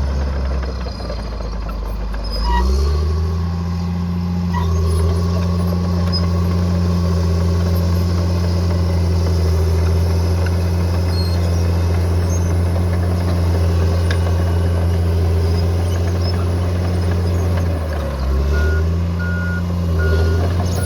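Bulldozer diesel engine revving up and running hard under load, its pitch dropping briefly and rising again near the end. Near the end a reversing alarm starts beeping about twice a second.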